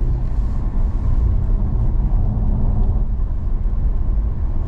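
American police car's engine and road noise heard from inside the cabin, a steady low drone while driving on the track.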